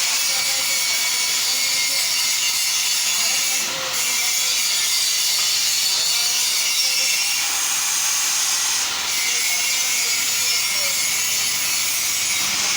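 Electric arc welding on metal: a steady crackling hiss of the arc, broken off briefly twice.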